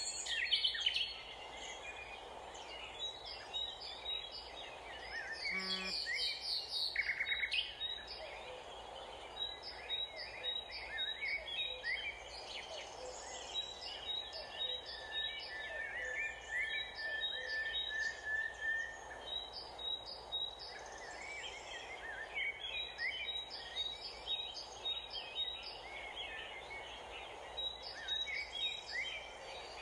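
Several small birds chirping and trilling on and off, with short repeated phrases and one longer whistled note around the middle, over a steady low background noise.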